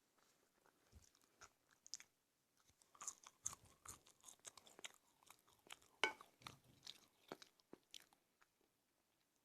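A person chewing food close to the microphone in a mukbang: a run of short, sharp mouth clicks and smacks, busiest in the middle, with one loudest click about six seconds in.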